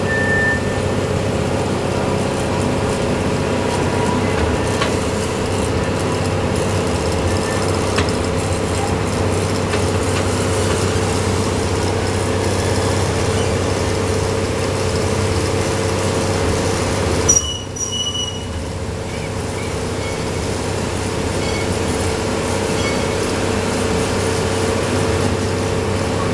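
Miniature amusement-park train running on its track, heard from an open passenger car: a steady mechanical drone with wheel and rail noise. A brief sharp sound about two-thirds of the way through, after which the noise dips for a moment.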